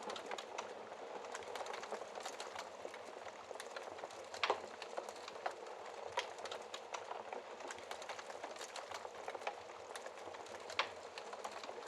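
Wood logs burning in a fireplace, crackling: a steady hiss of flame with frequent sharp pops, two louder ones about four and a half seconds in and near the end.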